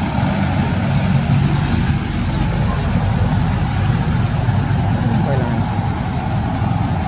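Steady low rumble with faint voices in the background.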